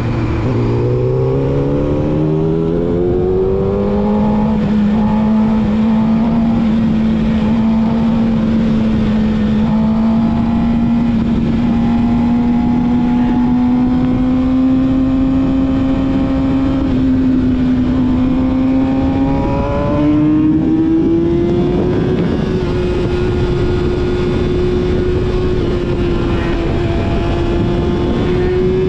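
Yamaha YZF-R6's 600 cc inline-four through a full-system aftermarket exhaust, under way. It revs up over the first few seconds, then holds a steady, slowly rising note, and climbs again about twenty seconds in.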